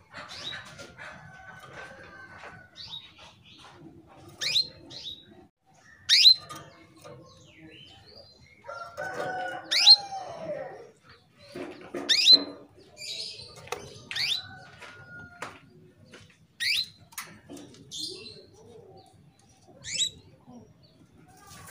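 Female canary in breeding condition giving short, sharp high call notes, one every two seconds or so: the call a hen uses to summon a male. Fainter, lower bird calls sound between them, with a longer falling call near the middle.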